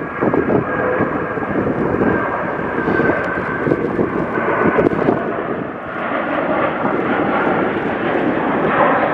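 Jet engines of an Airbus A330 airliner running loud and steady, a dense rushing noise with a faint whine in it.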